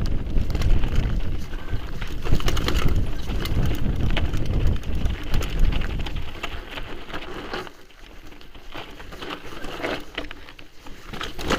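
Mountain bike being ridden on a trail: wind buffeting the microphone, with many small clicks and rattles from the bike and tyres over the ground. The wind noise drops away about eight seconds in.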